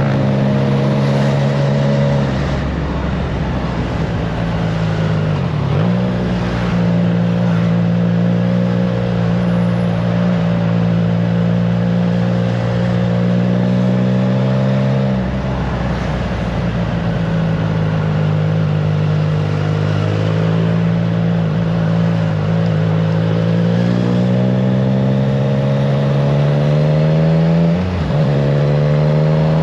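Triumph Trident 660's three-cylinder engine running through a FireTong exhaust while riding at road speed, with wind noise. The engine note climbs slowly and dips sharply a few times, near the start, around the middle and near the end, as the throttle is eased or gears change.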